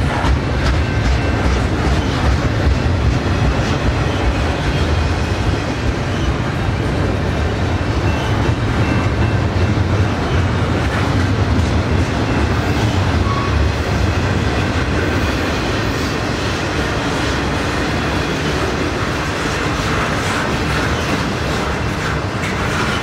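Double-stack intermodal container cars rolling past at close range: a loud, steady rumble of steel wheels on the rails. It eases slightly in the second half.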